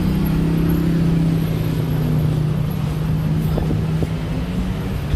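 Street traffic noise with a steady low engine hum that holds for about four and a half seconds, then fades.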